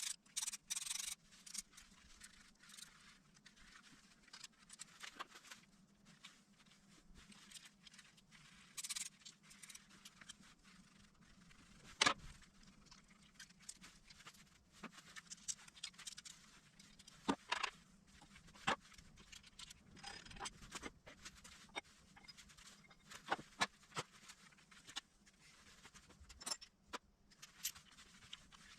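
Faint, scattered metal clicks, taps and light scrapes of hand tools working on a K6A engine during head gasket removal, with one sharper knock about twelve seconds in.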